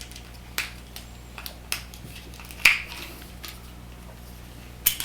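Scattered light clicks and taps of the plastic cord lock and its end cap being handled and pried as the cap is bent back, about five clicks in all, the sharpest about two and a half seconds in.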